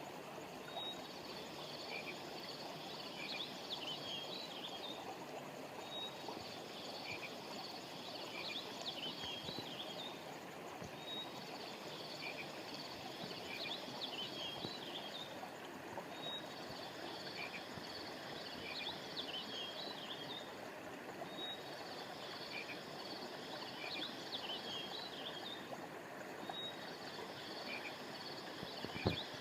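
Steady rush of a flowing river or stream, with a chorus of high chirping animal calls that comes in bursts of three to four seconds, repeating about every five seconds. A single brief low thump near the end.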